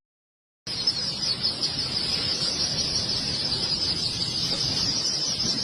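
A steady, unbroken high-pitched insect chorus outdoors, starting abruptly a moment in.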